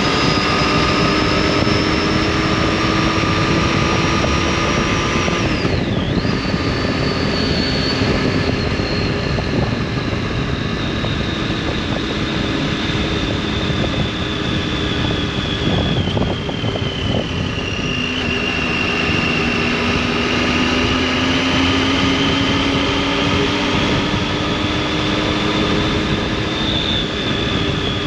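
Triumph Tiger 800's three-cylinder engine and exhaust under way, the engine note climbing slowly, dipping sharply for a moment about six seconds in, then easing down for several seconds before rising again.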